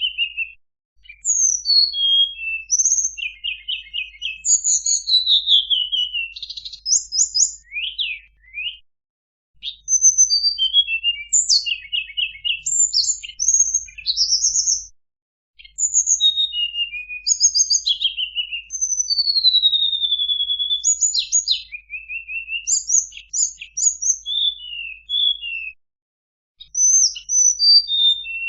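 Tledekan gunung, a small Indonesian songbird, singing a fast, varied run of high chirps, trills and sweeping whistles, broken by brief pauses. It is a masteran song recording of the kind used to train caged songbirds and provoke them into singing.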